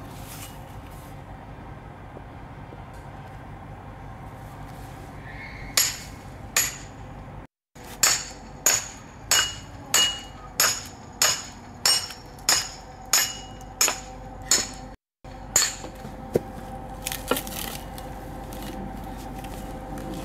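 Regular hammer blows with a metallic ring, about three every two seconds, in a run of a dozen or so, on tools worked into a log to split it.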